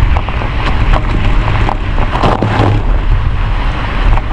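Wind buffeting the microphone: a loud, steady rumble with a few short crackles.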